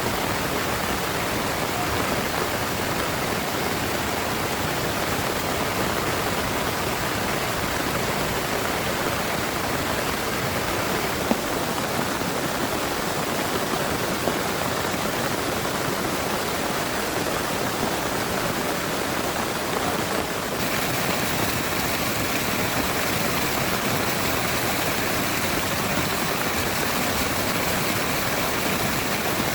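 Heavy rain pouring steadily, a dense even hiss of water. The texture shifts slightly about two-thirds of the way in.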